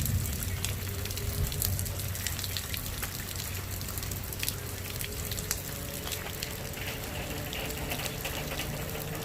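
Thunderstorm rain falling steadily, with many individual drops tapping close by over a low steady hum.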